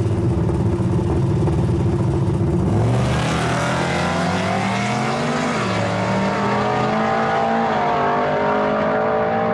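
Drag-racing pickup truck's engine held at steady revs on the line, then launching about three seconds in and accelerating hard, its pitch climbing, dropping once at a gear change about halfway, and climbing again.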